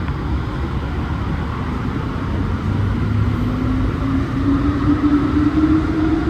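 Alstom NS-16 metro train's traction motors whining with a steadily rising pitch as the train accelerates, over a low rumble of wheels on track, heard from inside the car.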